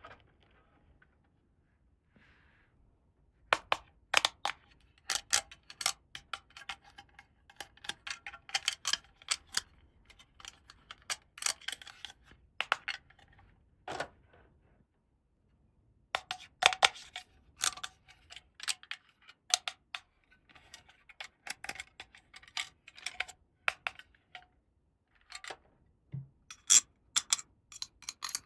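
Small plastic toy parts being handled and fitted together: runs of quick, sharp clicks and taps, with a short pause about halfway through.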